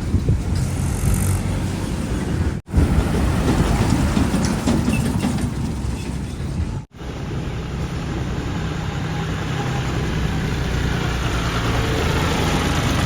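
Diesel engine of heavy construction machinery running steadily under load, a low engine drone with clatter and noise above it. The sound breaks off abruptly twice.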